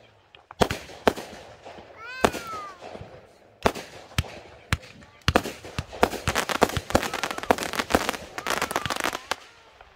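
Backyard consumer fireworks going off: single sharp bangs in the first half, then a dense, rapid run of reports from about five to nine seconds in.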